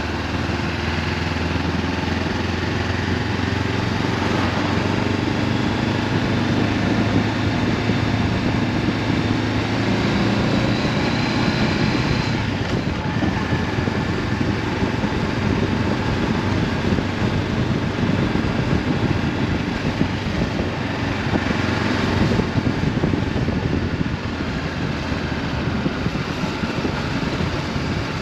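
Honda CB500F parallel-twin engine through an Akrapovic exhaust, running steadily on the move, with constant wind rush over the helmet-mounted microphone.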